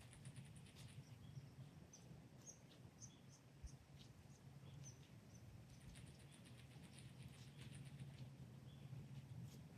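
Near silence with faint, short high-pitched bird chirps and quick ticking call runs scattered throughout, over a low steady hum.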